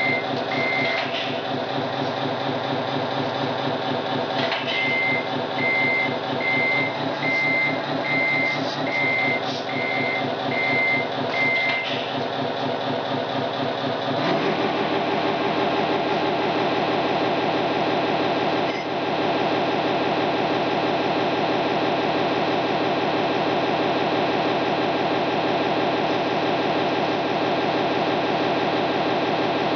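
Simulated diesel engine sound from an RC Scania truck's sound unit running steadily, with regular reversing beeps, a bit more than one a second, in two runs over the first twelve seconds. About fourteen seconds in the engine note changes to a higher, steady sound.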